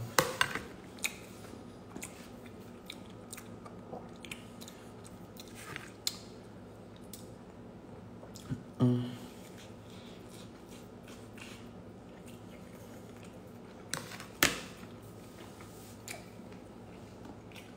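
Close-up chewing and biting of a pan-toasted egg sandwich, with small wet clicks and crunches throughout. There is a short hummed sound about nine seconds in and a few sharper clicks about fourteen seconds in.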